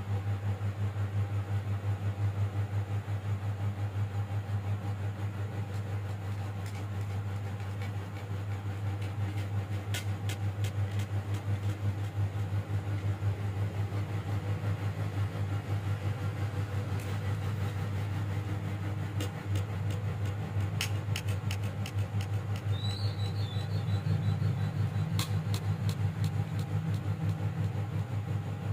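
A steady low machine-like hum, with scattered light clicks in the second half.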